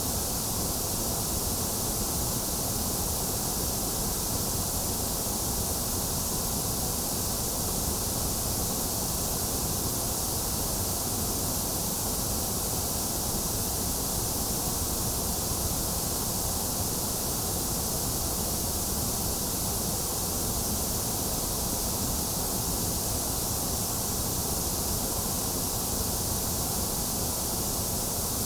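White noise track: a steady, unchanging hiss spread across all pitches, brightest in the high range.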